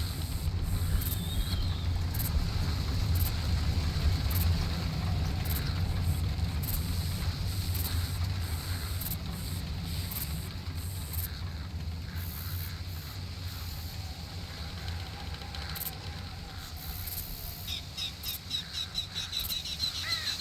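Summer outdoor nature ambience: a steady low rumble with a faint chirp a second or two in, and a rapid run of ticking trills near the end.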